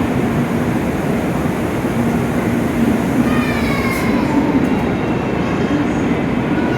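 N700 series Shinkansen train running slowly alongside the platform as it comes to a stop: steady low rumbling noise, with a falling whine about three seconds in.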